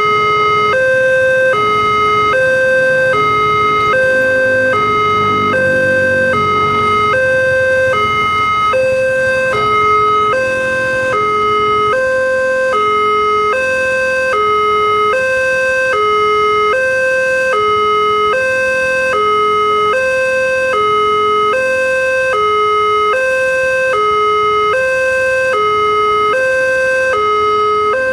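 Railway level-crossing warning alarm sounding continuously, an electronic two-tone signal alternating between a higher and a lower note about every half second, warning that a train is approaching. A low rumble swells underneath it around four to eight seconds in.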